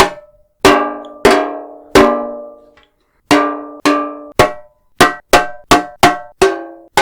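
Metal tin box struck about a dozen times, each hit ringing with a metallic tone that dies away, used as a foley stand-in for a saucepan being hit. The hits come a little over half a second apart at first, then faster after about three seconds.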